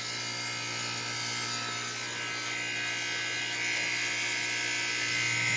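Goodman central air conditioner's compressor running on its own with the condenser fan disconnected: a steady electrical hum with a buzzing edge. A hiss grows slightly louder past the middle.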